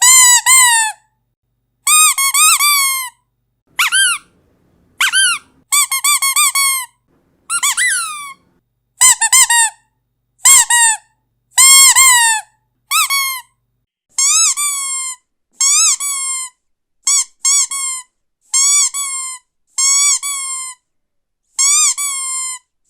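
Squeaky dog toy squeezed over and over, giving short high squeaks one at a time or in quick pairs with brief silent gaps between.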